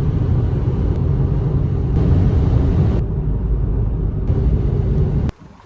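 Loud, steady low rumbling noise, cut into short pieces about a second long, that stops abruptly about five seconds in.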